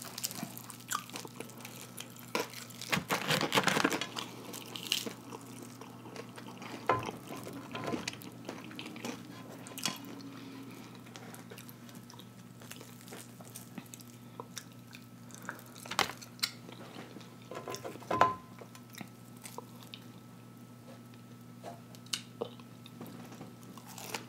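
Close-miked eating sounds of a person chewing fried breaded catfish: soft wet chewing and lip smacks with scattered sharp mouth clicks. A louder cluster of crackling comes about three to four seconds in, and single louder clicks come later.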